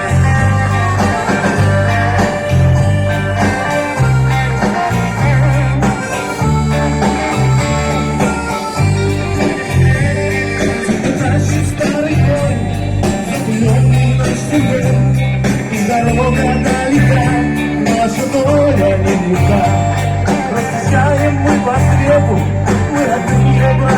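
Live band music from a vocal-instrumental ensemble: electric guitar and a pulsing bass line over a steady beat, with singing in places.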